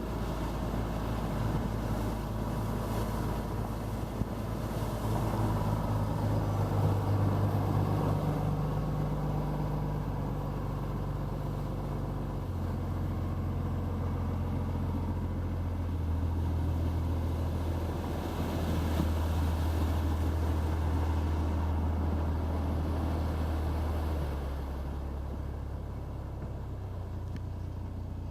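A boat's engine running steadily with a low drone. Its pitch shifts up or down a few times, about midway and again near the end, over a faint wash of wind and water hiss.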